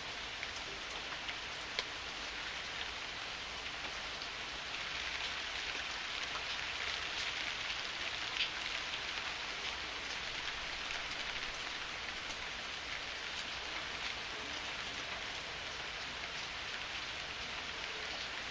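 Heavy rain falling steadily, with scattered sharp drop ticks; it swells a little about a third of the way in.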